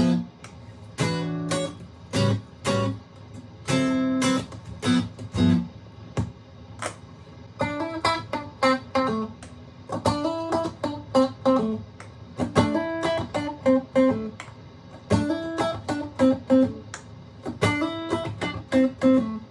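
Aria STG-series electric guitar being played: a few chords struck and left to ring for the first several seconds, then quicker single-note lines.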